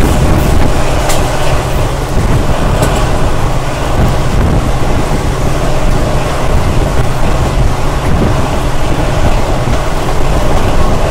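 Diesel-hauled passenger train running steadily, heard from on board a coach: a continuous loud rumble of wheels on the track with rushing air.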